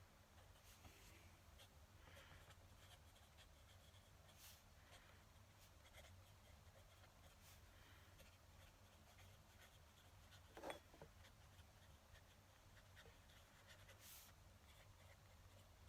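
Faint scratching of a fountain pen nib on paper in short, irregular strokes, with a brief squeak about two-thirds of the way in.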